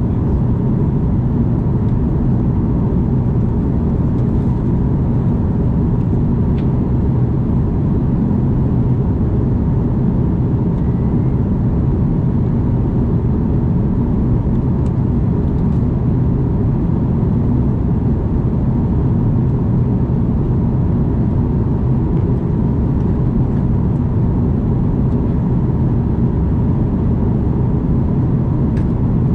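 Steady low roar of an Airbus A330 passenger cabin in flight, engine and airflow noise, with a faint steady whine above it.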